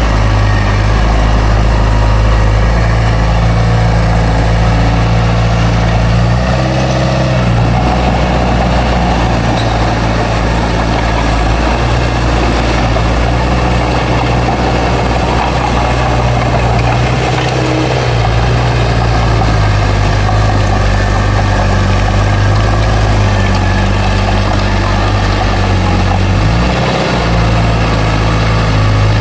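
Bulldozer's heavy diesel engine running steadily, its pitch briefly shifting three times as the engine speed changes.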